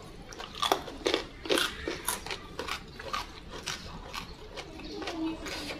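Close-miked crunching and chewing of raw vegetables dipped in sambal, a string of irregular crisp crunches and mouth clicks about two a second.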